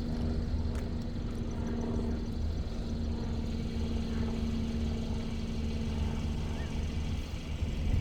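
A car engine idling steadily: a low, even rumble with a constant hum.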